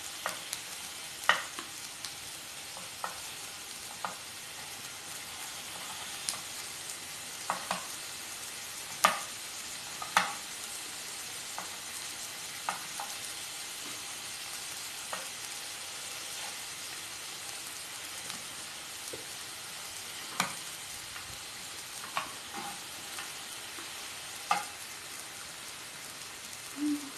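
Pork belly slices and pork sausages frying on a nonstick pan: a steady sizzling hiss with scattered sharp clicks and pops.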